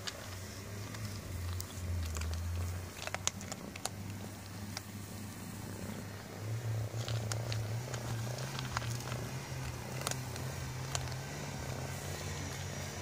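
Cats purring, a steady low rumble, with scattered sharp clicks of their eating from a shared food bowl.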